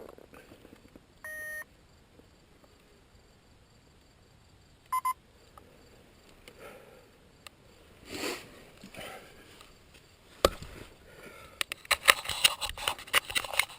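Two short electronic beeps about four seconds apart, the second a quick double pip. Near the end comes a run of clicks and rustling handling noise.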